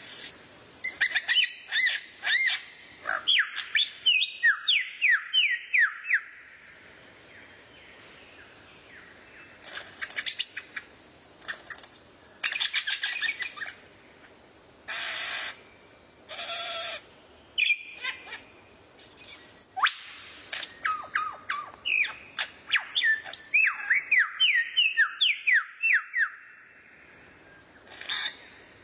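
A songbird singing quick runs of clear whistled notes that sweep up and down, in a long burst at the start and another about two-thirds through, with shorter calls and trills between and a brief pause early on.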